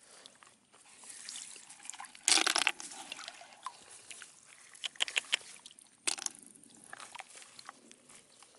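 Shallow water sloshing and splashing as hands work through it, with irregular clicks between; the loudest splash comes about two seconds in and another just after six seconds.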